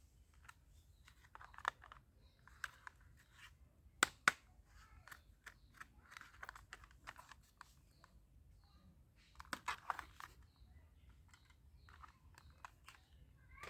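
Plastic toys and their wrapping being handled: scattered faint crinkles, taps and clicks, with a few sharper clicks around four seconds in and a cluster of crinkling about ten seconds in.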